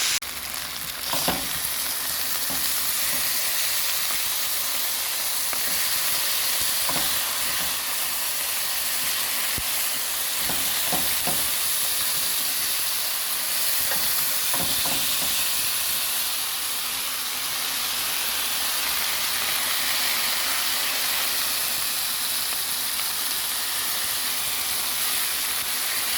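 Chicken wings frying in vegetable oil in a pot, a steady sizzle, with a few light clicks scattered through it.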